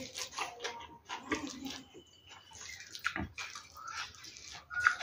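Close-up eating sounds: a person chewing a mouthful of rice and fried fish eaten by hand, with irregular wet smacks and clicks of the lips and mouth.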